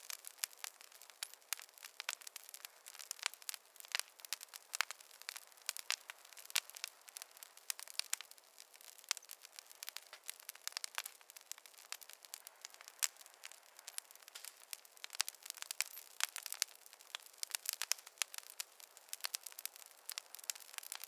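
Wood campfire crackling: dense, irregular snaps and pops over a soft hiss, with no low rumble.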